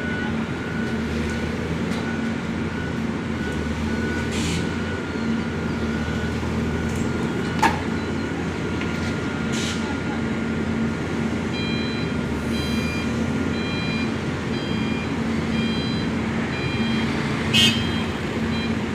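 Heavy machinery's diesel engine running steadily at a work site, with a warning alarm beeping about one and a half times a second from about two-thirds of the way in. A sharp knock sounds about halfway through and a short loud clatter near the end.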